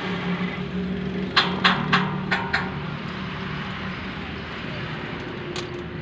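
A tractor engine running steadily, fading after about four seconds, with a quick run of five sharp knocks about a second and a half in.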